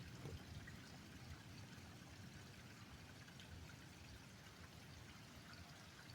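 Heavy rain pouring down, a faint, steady hiss.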